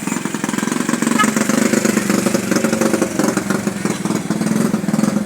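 A motorcycle engine running steadily close by, with rapid, even firing pulses, over the hiss of heavy rain.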